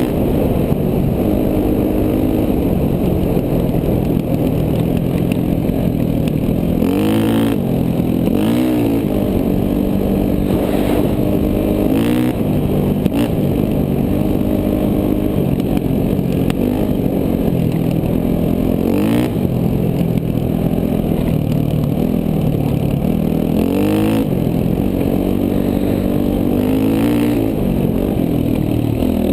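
KTM 450 dual-sport motorcycle's single-cylinder four-stroke engine running under load on a trail ride. Its pitch holds steady for stretches and rises and falls several times as the throttle is worked and gears change.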